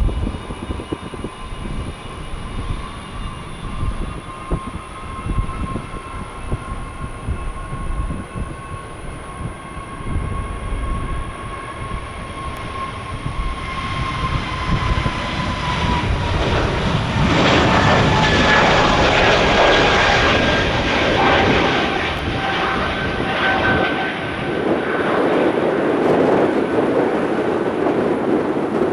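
Jet airliner passing the microphone: a turbine whine that slowly falls in pitch, then jet noise growing loud about halfway through, with the whine sliding down as the aircraft goes by. Strong wind buffets the microphone, giving a gusty low rumble throughout.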